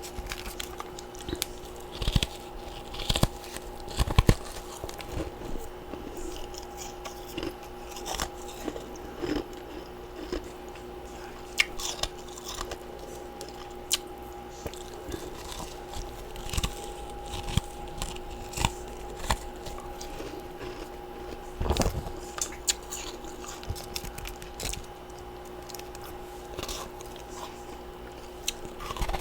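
Close-miked biting and chewing of freezer frost and ice chunks: irregular, sharp crunches, some louder bites standing out, over a faint steady hum.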